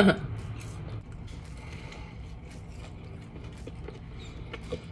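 A person chewing a grilled potato wedge close to the microphone: soft, scattered mouth clicks, with a slightly sharper tick near the end.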